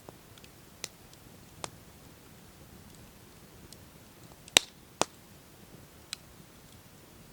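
Campfire crackling: sparse, sharp pops from burning wood, about five in all, the loudest two close together about four and a half seconds in, over a faint steady background.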